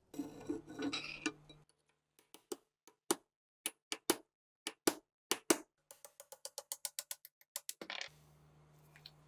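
Brief scraping, then a string of sharp, separate clicks and knocks, followed by a quick, even run of about eight clicks a second and one louder clack near the end.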